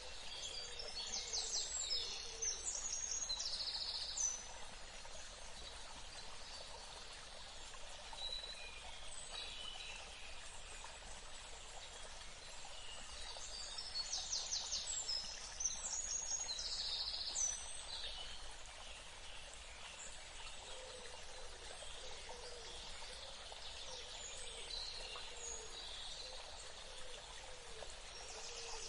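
A songbird sings the same quick, high, trilling phrase twice, about a second in and again about fourteen seconds in, with scattered faint chirps between, over a steady even hiss of outdoor ambience.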